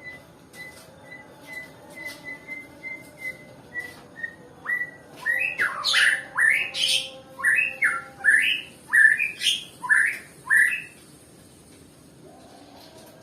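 White-rumped shama (Nias murai batu) calling and singing: short, even notes about twice a second at first, then from about five seconds in a run of loud whistled notes swooping up and down, stopping about eleven seconds in.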